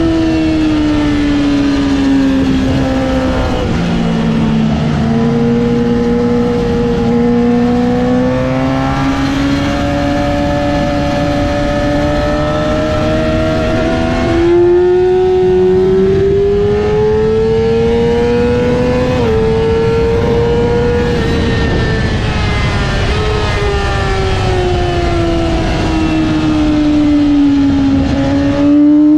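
Yamaha R6's inline-four engine running hard around a racetrack. Its pitch falls over several seconds, climbs again, then steps up suddenly and gets louder about halfway. It rises, falls slowly for several seconds and climbs once more near the end, over a steady rush of noise.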